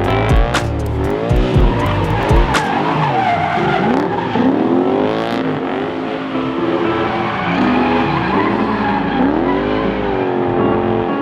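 Drift car engine revving up and down through a slide, with tyre squeal. There are several sharp cracks in the first couple of seconds.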